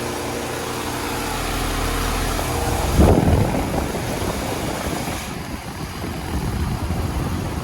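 Carrier Performance Series 4-ton central air conditioner's outdoor unit running, its Copeland scroll compressor and condenser fan giving a steady hum, with a sudden louder rumble about three seconds in. The unit is very loud, which the owner puts down to it being unbalanced, a loose bolt or a fault in the install.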